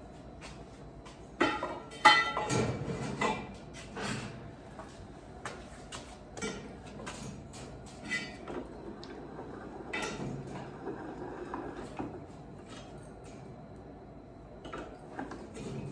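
Cut lengths of galvanized steel tubing clanking and knocking as they are handled and set down, loudest in a cluster of clanks about two seconds in, then lighter scattered knocks and scrapes.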